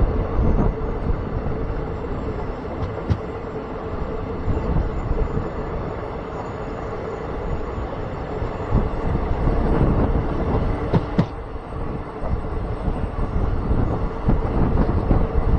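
Passenger train running along the track, heard from on board: a steady rumble of wheels on rails with an even hum, and a couple of sharp clicks, one about three seconds in and another about eleven seconds in.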